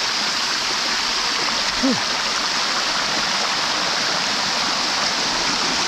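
Steady rush of shallow waterfall water running over the rocks of the Sticky Waterfall.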